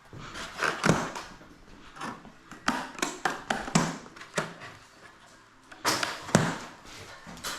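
Irregular knocks, clicks and clunks as heavy garage door sections and hardware are handled and set into place, with the loudest pair of knocks about six seconds in.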